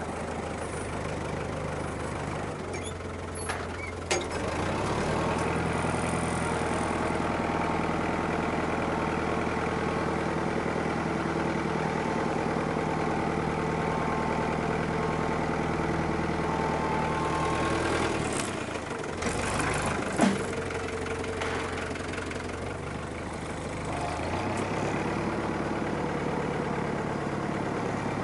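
Farm tractor's diesel engine running steadily, picking up about four seconds in after a couple of short knocks, easing off briefly with a sharp knock a little past the middle, then picking up again.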